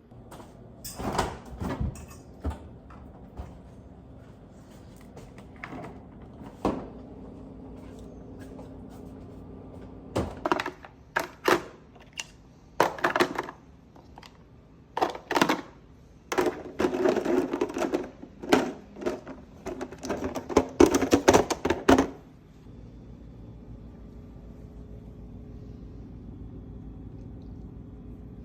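Kitchen items and plastic containers being handled and set down: irregular clicks, knocks and rustling, busiest about two-thirds of the way in, over a steady low hum.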